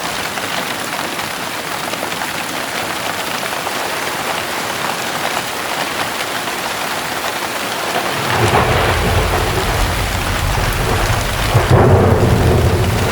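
Heavy rain pouring steadily. About two-thirds of the way in, a deep rumble of thunder rolls in and grows, loudest near the end.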